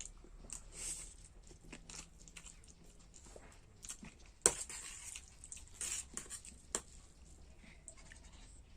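A person eating masala Maggi noodles: chewing, with scattered small clicks and short bursts of mouth noise. There is one sharp click about four and a half seconds in.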